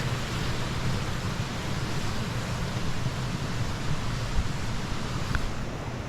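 A steady outdoor rushing noise, even and unbroken, with a deeper rumble underneath.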